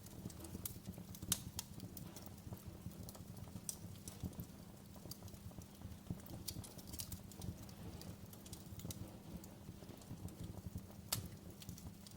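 Wood fire crackling in a fireplace: irregular sharp pops and snaps over a low steady rumble, with a stronger pop about a second in and another near the end.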